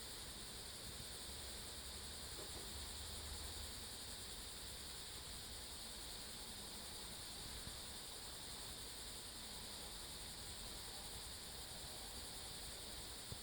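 Faint, steady chorus of insects, cricket-like, with no break.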